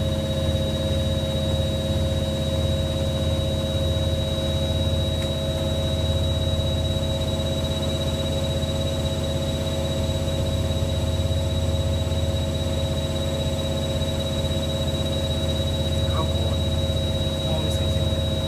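Hoover Logic A3790 washing machine running steadily at high speed, most likely spinning: a constant motor whine over a low hum that does not change in pitch.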